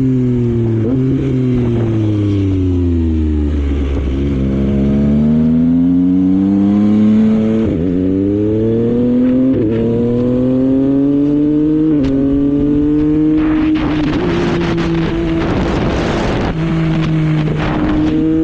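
Yamaha MT-09's three-cylinder engine heard from the rider's seat: revs fall over the first few seconds, then it accelerates with the pitch dropping sharply at three upshifts. It settles to a steady cruise in the last few seconds under a rush of wind noise.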